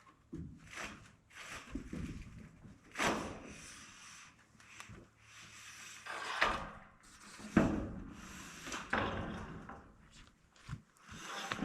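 Irregular knocks, scrapes and rattles of building materials being handled and set in place, a few sharper bangs standing out among them.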